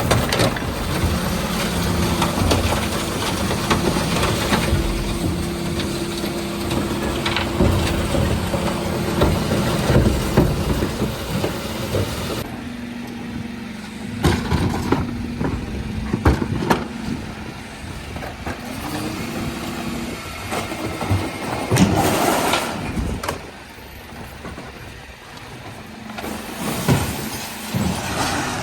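Dennis Elite 6 refuse truck running, its engine held at a steady higher speed for about twelve seconds before dropping back, then picking up again later. Sharp knocks and clanks come through it, with a loud rushing burst about twenty-two seconds in.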